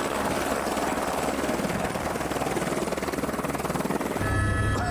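Helicopter running close by, its rotor chopping rapidly. About four seconds in, the sound gives way to a steadier low hum with a few steady tones.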